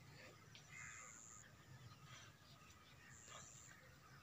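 Near silence, with faint, distant bird calls now and then.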